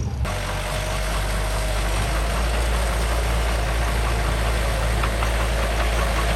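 Heavy diesel earthmoving machinery running steadily, the engine holding an even speed with a faint steady whine above it.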